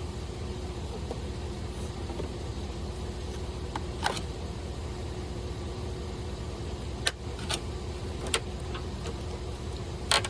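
A vehicle engine idling steadily, with a few sharp clicks and knocks over it, the loudest near the end.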